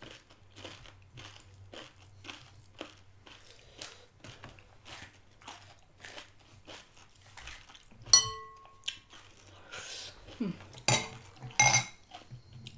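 Crisp pani puri shells being crunched and chewed close to the microphone, a short crunch every half-second or so. About eight seconds in, a sharp clink of tableware rings briefly and is the loudest sound, and a few louder clatters follow near the end.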